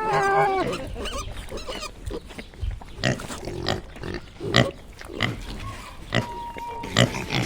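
Pig grunting: a pitched squeal-like call at the start, then a series of short, separate grunts.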